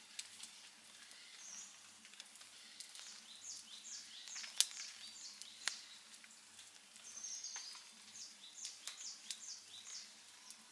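Outdoor wood fire crackling, with sharp pops about four and a half and five and a half seconds in over a faint hiss. Short high chirps repeat in quick runs in the background.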